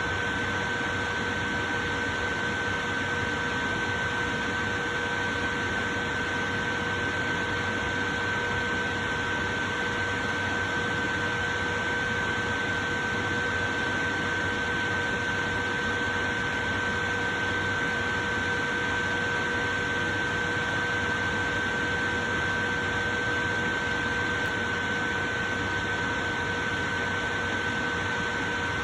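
Portable electric fan running steadily: an even whooshing noise with a steady hum of motor tones running through it.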